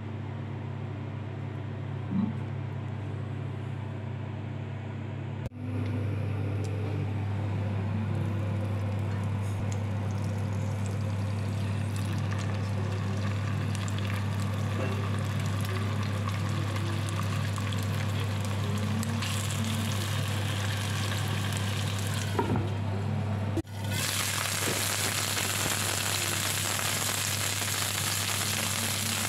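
Chicken wings frying in a pan, a steady sizzle over a constant low hum. About 24 seconds in, after a short break, the sizzle turns much louder and brighter.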